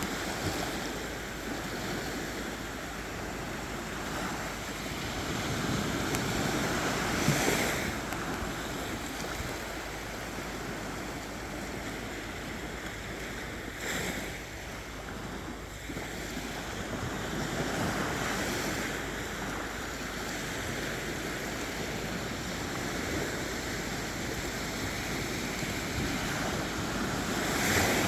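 Sea waves breaking and washing up a beach, the surf swelling and easing every several seconds, with some wind on the microphone.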